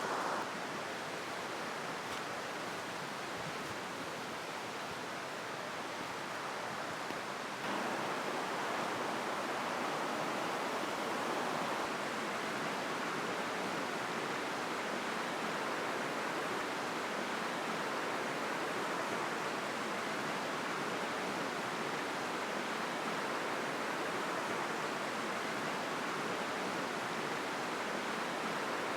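Steady rushing, hissing noise with no distinct events, a little louder from about eight seconds in.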